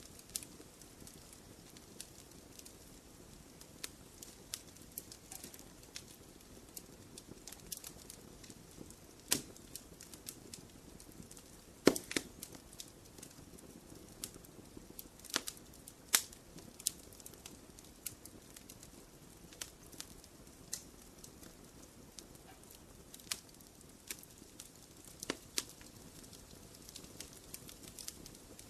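Wood fire crackling in a fireplace: irregular pops and snaps over a soft low rush of flame, with one sharp, loud pop about twelve seconds in.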